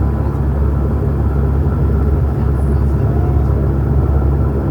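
Saab 340 twin-turboprop engines and propellers droning steadily, heard inside the passenger cabin while the aircraft taxis. It is a constant hum of several steady low tones.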